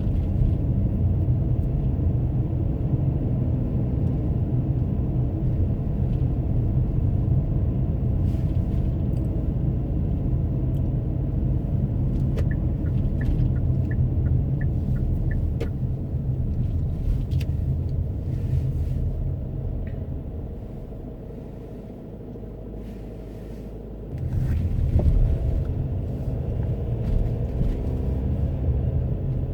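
Steady low rumble of a car's road and engine noise heard from inside the cabin while driving. It eases off for a few seconds about two-thirds of the way in and then picks up again. Midway there is a short run of faint ticks, about two a second.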